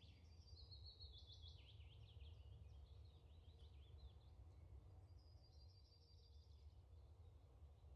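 Near silence: faint bird chirps in quick short series come and go over a low steady hum.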